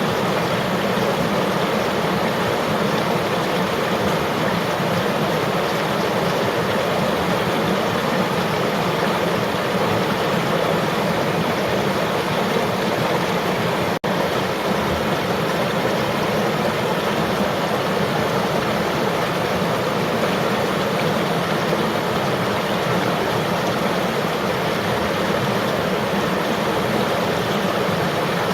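River water flowing and rushing steadily, an even roar with no breaks, except that it cuts out for an instant about halfway through.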